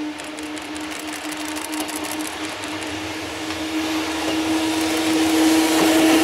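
EF65 electric locomotive pulling a container freight train away from a stop, a steady whirring hum from the locomotive growing louder as it draws near and passes, with the rolling noise of the wagons rising near the end.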